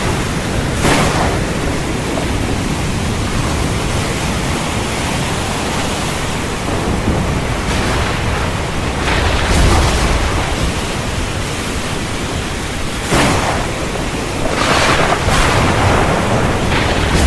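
Heavy rain pouring steadily, with several sudden sharp cracks of thunder and a low rumble of thunder partway through.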